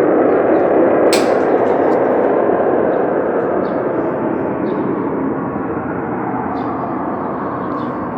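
A loud, deep rumbling noise from the sky, steady and slowly fading, with no aircraft, wind or explosion to account for it. A single sharp click comes about a second in.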